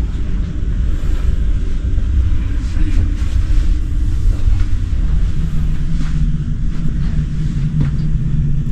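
Steady low rumble with no clear pitch, level throughout.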